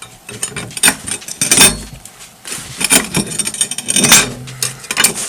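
Metal cookware being handled on a wood-burning stove: a run of irregular clanks, clinks and scrapes, with a few duller knocks.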